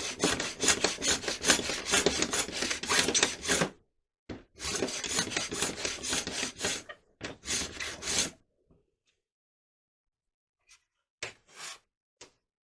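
Hand sanding with rapid back-and-forth strokes, taking off excess glue. It comes in two spells of about four seconds each with a short break between, then a few short, separate strokes near the end.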